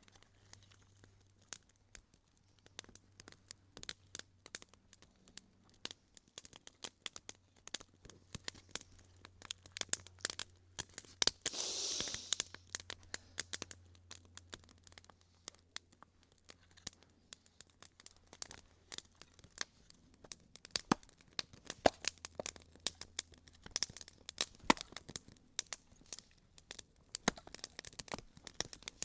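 Newly lit small campfire crackling as it catches: irregular sharp pops and snaps, with a brief louder hissing rush about twelve seconds in.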